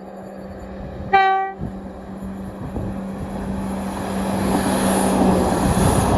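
A Class 170 Turbostar diesel multiple unit gives one short horn blast about a second in, then passes close by. Its steady engine note and wheel noise grow louder toward the end.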